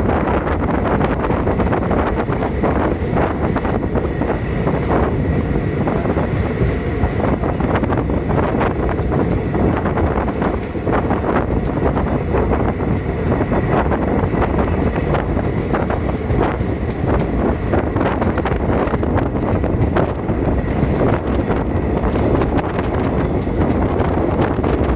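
Passenger train running steadily along the track, heard from on board, with wind buffeting the microphone.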